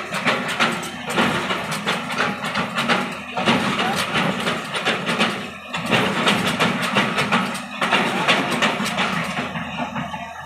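Diesel earthmoving machinery running, with dense rattling and clatter of stone being loaded, easing briefly every two seconds or so.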